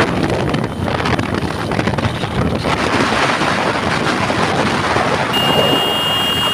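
Rushing wind buffeting the microphone of a motorcycle ridden at full speed, a rough, continuous noise. A steady high-pitched beep joins in about five seconds in.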